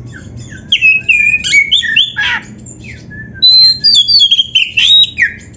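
Oriental magpie-robin (kacer) singing a rapid string of varied whistled notes and slurred glides, in two phrases with a pause of about a second between them.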